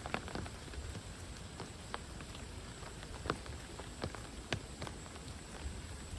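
Steady rain falling through the forest, with sharp irregular taps of large drops landing close by and a low rumble underneath.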